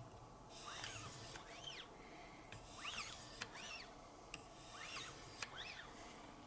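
6-micron diamond lapping film on Wicked Edge guide arms being drawn up along an S90V steel knife edge, polishing it toward a mirror finish. The strokes are light and faint, each a short hiss that rises and falls in pitch, about one a second, with small clicks between them.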